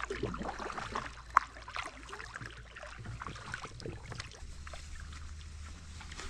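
Paddle strokes in river water: irregular splashing and dripping as the blade dips and lifts, with one sharp knock a little over a second in.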